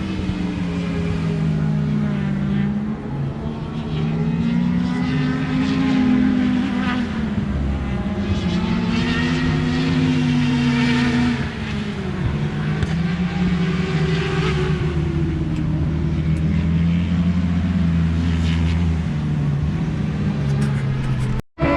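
Racing motorcycles on a road course running hard past the spectators, several engines overlapping, their pitch climbing under acceleration and dropping on downshifts.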